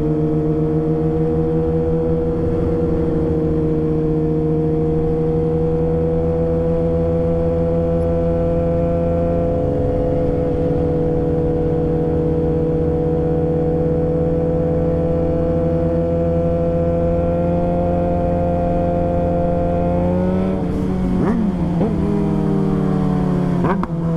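Motorcycle engine running at steady cruising revs, the pitch creeping slowly upward. Near the end the revs twice dip and jump quickly, then fall away.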